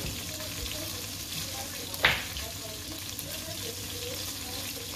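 Chicken pieces frying in oil in a pot, a steady crackling sizzle, with one sharp knock about two seconds in.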